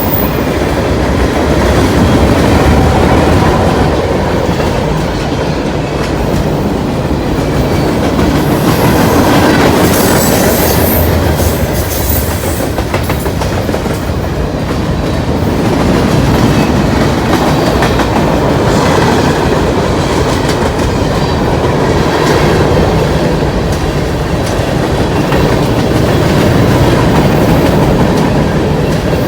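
Freight train cars rolling past at speed: a loud, continuous rumble with the clatter of steel wheels on the rails, swelling and easing every several seconds.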